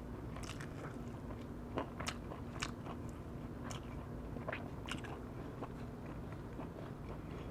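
A person chewing a mouthful of firewood-roasted chicken close to the microphone, with a scatter of small irregular mouth clicks.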